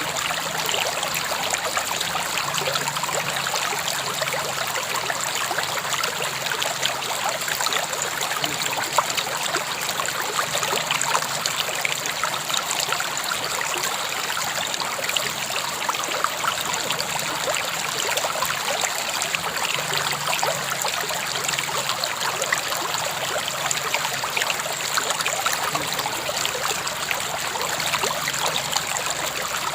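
River water flowing steadily, a continuous rushing with small splashes and trickles throughout.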